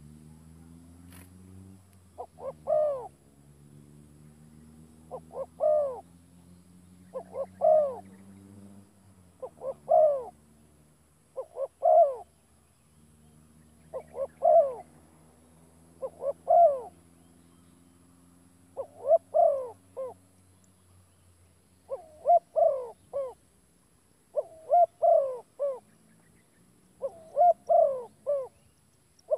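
A bird calling: short notes, singly or in quick groups of two or three, repeated about every two seconds. A faint low hum runs underneath and fades out about two-thirds of the way through.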